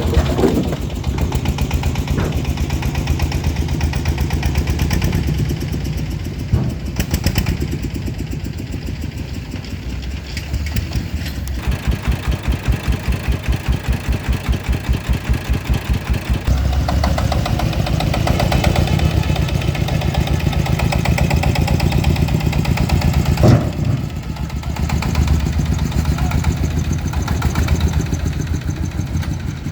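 A farm truck's engine running, its speed rising and falling. For a few seconds in the middle it settles into a slow pulse of about three beats a second. Two sharp knocks stand out, one early and one near the end.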